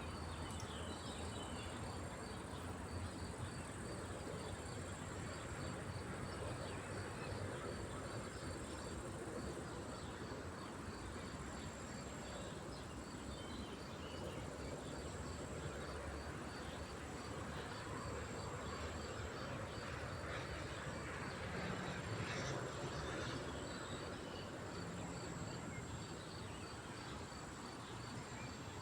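Insects chirring steadily, with a regular train of short high chirps repeating all through, over a low rushing background; a slightly louder, brighter sound comes in about two-thirds of the way through.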